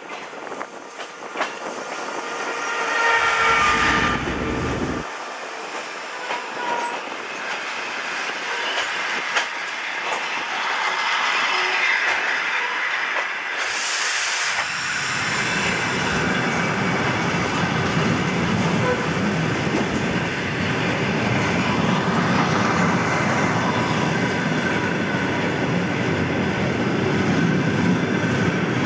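Diesel trains at a station: a horn sounds for a couple of seconds about three seconds in, and a short hiss of air comes near the middle. After that comes the steady rumble and clickety-clack of a train pulling away, growing louder.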